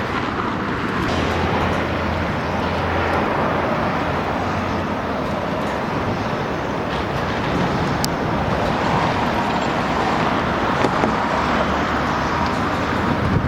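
Steady road traffic noise: cars passing by continuously.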